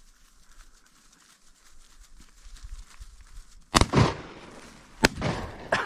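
Two shotgun blasts at incoming ducks, about a second and a half apart, each echoing away after the crack.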